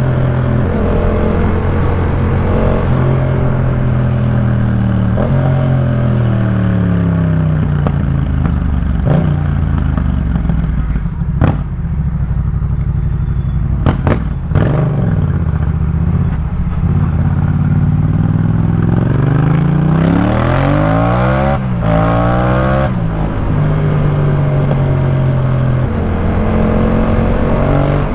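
Yamaha MT-07's parallel-twin engine through a Jeskap K4 aftermarket exhaust while riding. The engine note holds steady, then falls as the bike slows and idles low, with a few sharp clicks. It then revs up hard through several quick rises with brief dips between gears before settling to a steady cruise.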